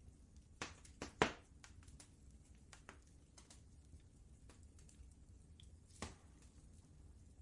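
Wood fire crackling in a fireplace: irregular sharp pops and snaps over a low steady rumble, with a cluster of louder pops about a second in and another loud pop about six seconds in.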